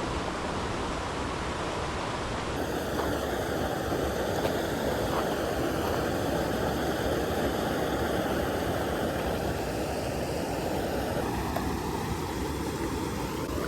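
Water of a small stream rushing steadily.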